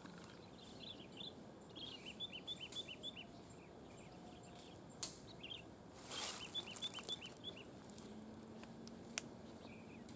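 A small bird calling in quick runs of short, high chirps, two runs of about six to eight notes each, with a couple of sharp clicks between them.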